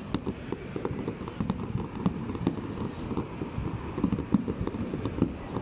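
Aerial fireworks bursting in a rapid, irregular string of bangs and crackles, several a second.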